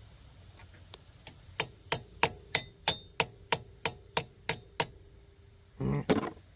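Hammer striking metal eleven times in a steady rhythm, about three blows a second, the struck part ringing after each blow, followed by a short rough clatter near the end.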